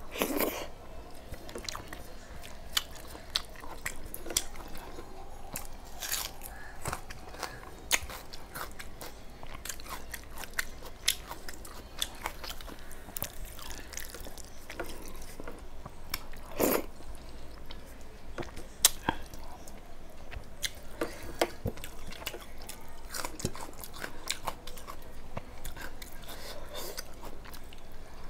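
Close-up chewing of a handful of rice and dal: wet mouth clicks and smacks, with a few crunchy bites. Two louder clicks stand out, one near the start and one a little past halfway.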